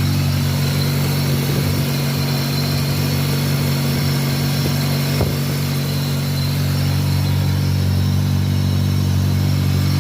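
Toyota 4A-GE 16-valve twin-cam four-cylinder engine idling steadily, with one faint click about halfway through.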